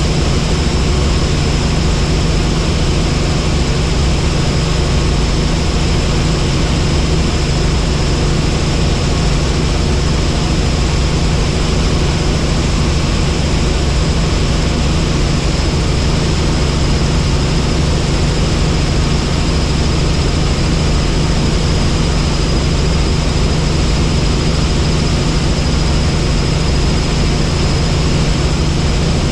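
Helicopter in flight: a steady, loud drone of the turbine engine and rotor, with a thin, steady high whine above it.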